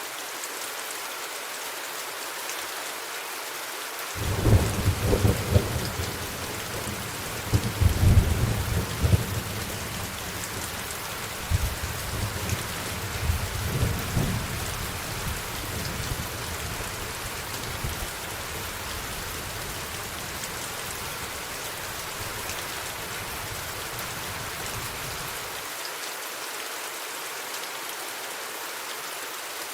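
Steady rain falling, with a long roll of thunder that breaks in suddenly about four seconds in, swells loudest a few seconds later with further rumbles, and dies away well before the end.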